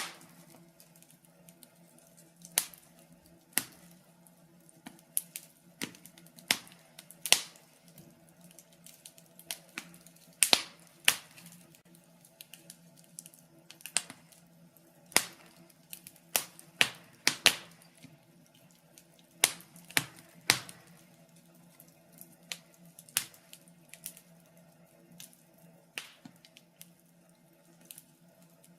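Burning logs in a fireplace crackling: sharp, irregular pops and snaps a second or two apart, some much louder than others, over a faint steady low hum.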